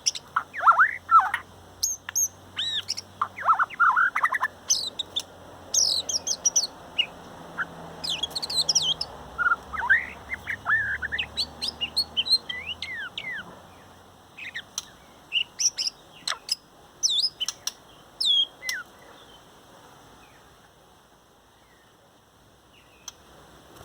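Male shama singing: a long run of varied whistled phrases with rising and falling slides and quick notes, broken by short pauses, dying away for the last few seconds. A faint low hum sits underneath during the first half.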